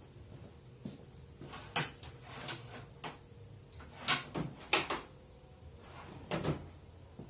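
Irregular knocks and clunks, about eight in all, of hard objects being handled or set down. The loudest come about four and five seconds in.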